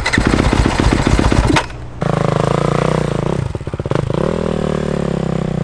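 Dirt bike engine running and being revved, the pitch rising and falling, with a short break about a second and a half in.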